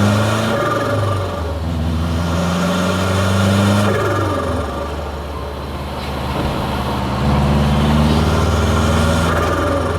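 Hybrid-turbocharged Subaru WRX STI flat-four engine pulling under acceleration, its pitch climbing in long pulls and falling away about four seconds in and again near the end.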